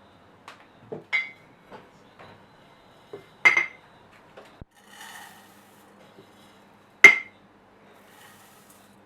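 Kitchenware clinking: three sharp clinks of something hard against a ringing bowl or dish, about a second, three and a half and seven seconds in, the last the loudest, with softer taps and a brief rustle between.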